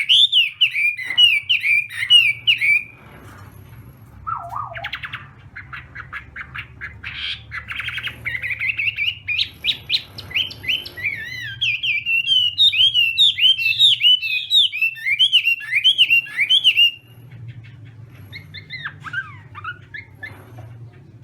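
Chinese hwamei (hoạ mi) singing: long, loud runs of rapid, varied whistled notes, falling quieter for a few seconds between phrases before the next burst of song.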